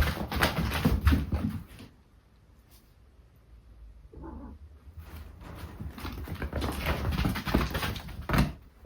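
Two cats chasing and play-fighting, their paws scrabbling and thumping on the floor with quick knocks and scuffles. It comes in two bouts, with a lull of a few seconds between them, and ends in a sharp knock.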